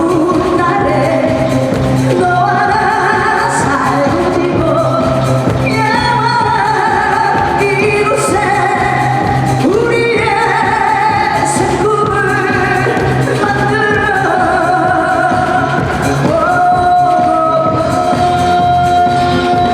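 Live Korean popular song: a sung melody in wavering notes over band accompaniment, ending on one long held note.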